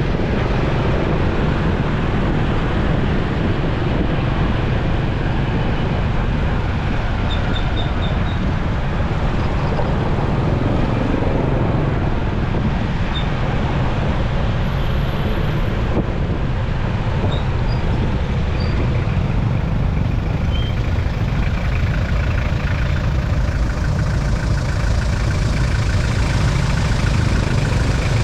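Motorcycle riding in busy city traffic: a steady mix of its engine, road noise and surrounding vehicles, heaviest in the low end.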